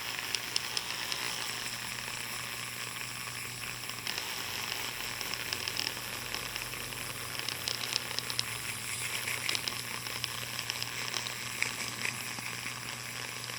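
Small variable-speed rotary tool running a fine-grit sandpaper polishing head against a clear plastic part, giving a steady scratchy hiss with small crackles over a faint motor hum.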